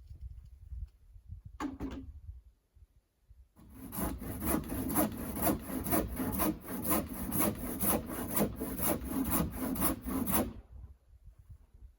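A handsaw cutting through wood in rapid back-and-forth strokes, about three a second. The sawing starts about three and a half seconds in and stops about a second and a half before the end.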